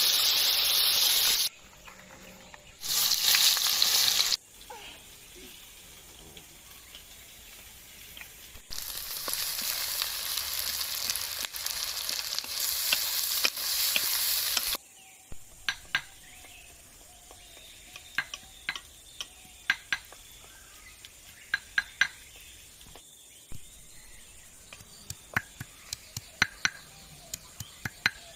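Onions frying in hot oil in a wok: a loud sizzling hiss that comes in stretches with quieter gaps. About halfway through it gives way to a run of short, sharp, irregular knocks, a blade crushing peeled garlic cloves on a board, coming faster toward the end.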